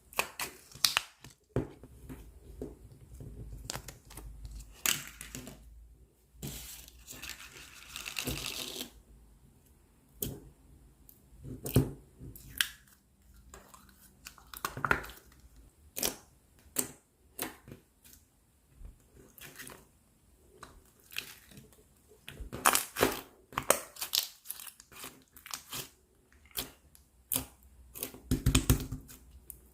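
Clear slime being pressed, stretched and folded by hand, giving many irregular sharp pops and crackles as air pockets burst, with a few longer crackling stretches.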